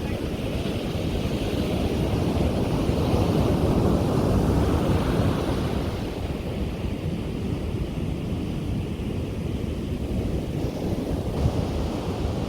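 Sea waves breaking and washing up on a beach, a steady rush that swells for a few seconds and then eases, with wind buffeting the microphone.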